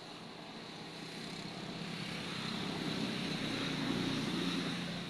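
A passing engine, growing louder to a peak about four seconds in and then starting to fade.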